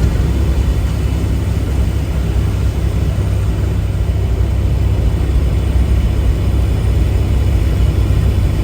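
Steady low rumble of a semi-truck's engine and road noise heard from inside the cab while driving.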